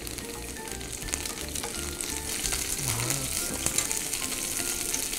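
Water spinach stems sizzling in hot oil in a frying pan, moved about with wooden chopsticks; the crackling sizzle grows louder as the pan heats.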